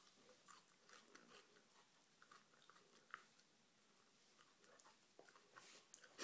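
Faint chewing of a raw Mizoram bird's eye chilli: scattered soft crunches and mouth clicks.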